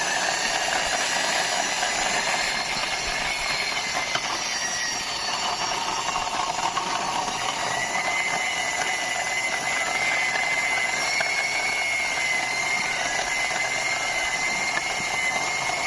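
Toy model car pushed along by hand, its wheels and mechanism giving a steady whirring with a thin, high whine that wavers slightly.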